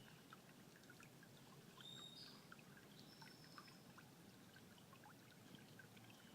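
Near silence: faint outdoor ambience with a few faint, short, high chirps scattered through it.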